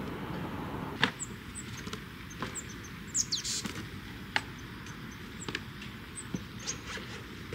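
Small birds chirping in short, high, falling calls, with a sharp knock every one to two seconds.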